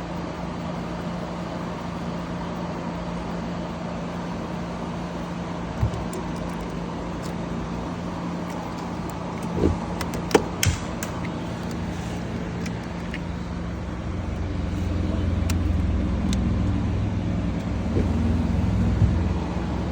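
Steady motor-vehicle hum, with a few sharp clicks and knocks around the middle and a louder low rumble swelling near the end.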